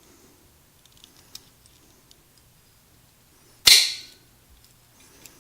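Crimping tool clamping a connector onto a wire: a few faint clicks, then one sharp snap a little over two-thirds of the way in.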